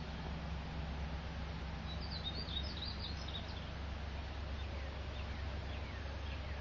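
A bird chirping a quick run of high calls about two seconds in, with a few fainter calls near the end, over a steady low background hum.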